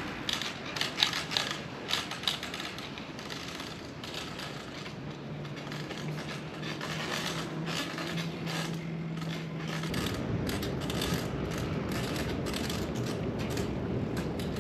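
Loaded touring bicycle on the move, its freewheel ticking and its parts clicking and rattling, with a few sharper knocks in the first couple of seconds. A low rumble joins about ten seconds in.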